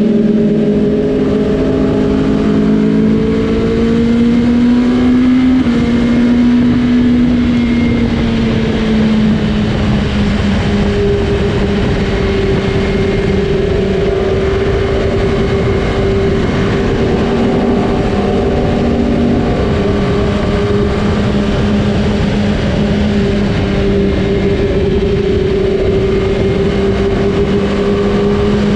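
Superbike engine at steady highway speed, its pitch drifting slowly up and down, over a constant rush of wind noise.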